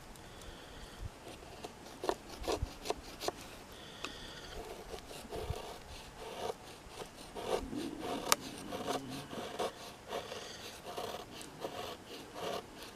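A knife working a piece of wood in repeated short scraping strokes, a few sharp clicks at first and then roughly two strokes a second.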